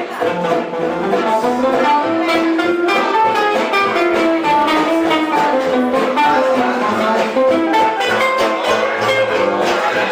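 A live band playing an upbeat instrumental: a melody of held notes over a steady, evenly pulsed strummed rhythm, with no break.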